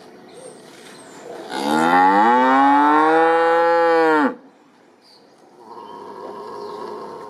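A cow mooing: one long, loud moo lasting nearly three seconds that cuts off abruptly, followed by a quieter sound near the end.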